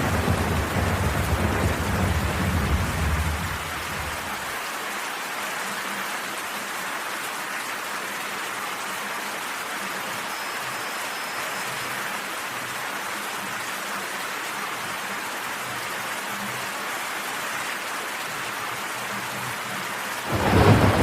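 Steady heavy rain hissing, with a low rumble of thunder for the first few seconds that dies away, and another louder rumble of thunder breaking in near the end.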